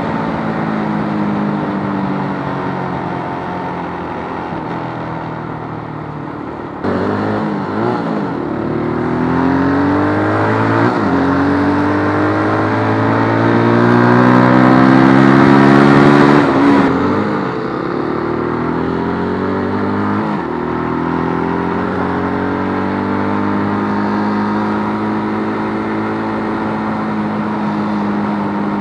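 Keeway RKF125 single-cylinder 125 cc motorcycle engine running under way. For the first few seconds its pitch sinks as it eases off. From about seven seconds in it pulls harder, its pitch climbing and dropping sharply several times, as at gear changes. It then holds a steady cruise.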